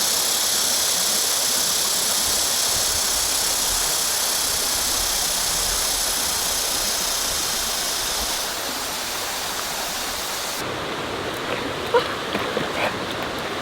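Valley stream water rushing steadily over rocks. The rush becomes a little quieter and duller about two-thirds of the way through.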